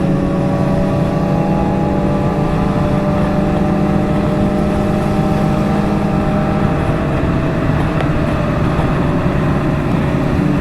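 Motorcycle engine running steadily at highway cruising speed, its note holding nearly constant, with wind rushing past.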